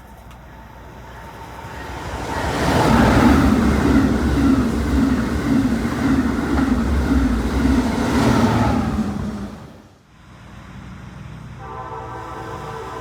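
An Amtrak Acela train passes at speed: a loud rush of wheels on rail that builds, holds for several seconds and fades away about ten seconds in. Near the end an Amtrak locomotive horn starts sounding, a steady chord.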